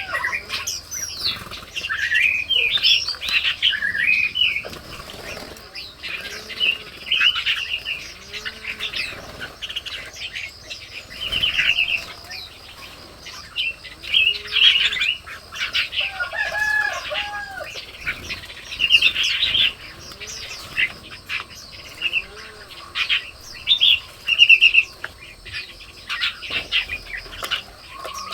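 Red-whiskered bulbuls calling: short, bright chirps and quick call phrases, one burst after another every second or so.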